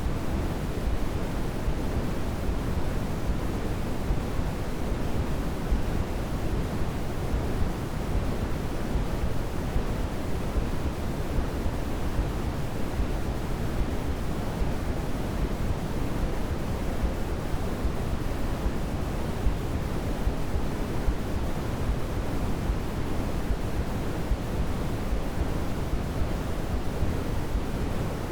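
Steady, unchanging sleep-aid noise, a constant hiss weighted toward the low end and deeper than pure white noise, with no swells or breaks.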